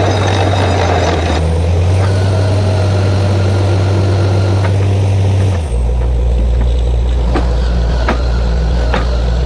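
Borewell drilling rig running under load, a loud steady low drone whose pitch drops a little just over halfway through. A few sharp knocks sound in the later part.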